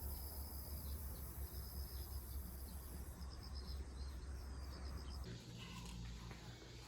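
Faint, evenly repeated insect chirping over a low steady hum; the chirping stops suddenly about five seconds in.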